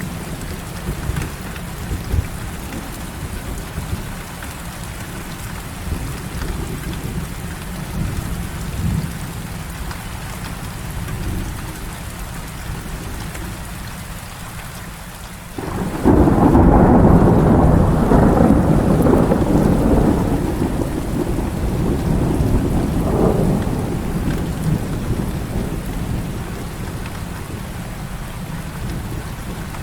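Heavy rain falling steadily. About halfway through, a thunderclap breaks in suddenly and loudly, then rumbles on for several seconds and slowly fades.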